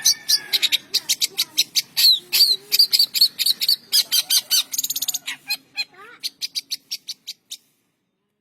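Long-tailed shrike (cendet) singing a fast run of sharp, high chips mixed with short slurred whistles. The song cuts off suddenly near the end.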